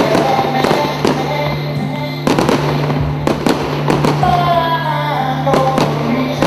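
Aerial fireworks bursting in several sharp bangs over the display's music soundtrack, which holds a steady low note under a melody.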